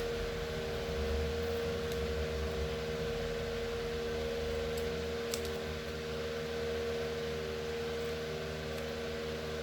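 Electric fan running with a steady hum and a constant whine. A few faint ticks about halfway through.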